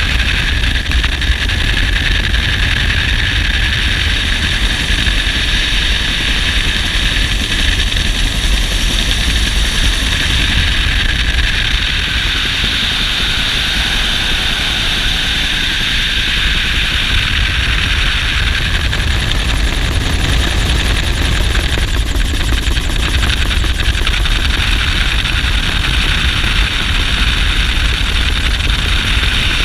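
Bell UH-1 "Huey" helicopter heard from inside the cabin: the main rotor's steady low beat under a constant turbine and rushing-air noise.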